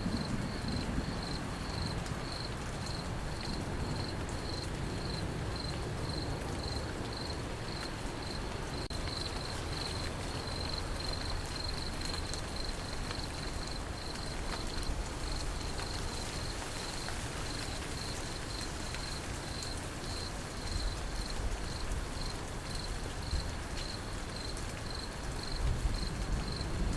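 Steady rain falling with crickets chirping throughout in a high, even pulse about twice a second. A low rumble of thunder starts to build near the end.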